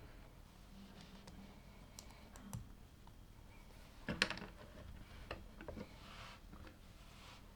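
Plastic LEGO pieces clicking and clattering as they are handled, in scattered clicks with a louder cluster about four seconds in.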